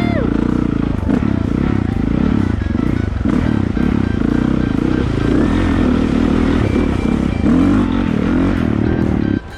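Dirt bike engine running while riding, loud and close, cutting off suddenly near the end.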